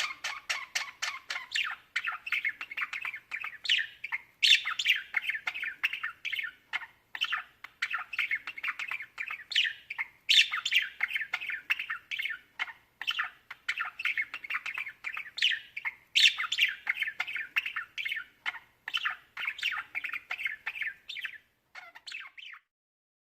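Budgerigars chattering and warbling continuously, rapid chirps and squawks, stopping abruptly near the end.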